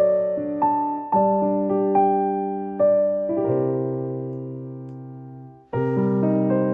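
Soft background piano music: gentle chords struck and left to ring and fade, with a long held chord dying away before a brief gap and new chords about two thirds of the way in.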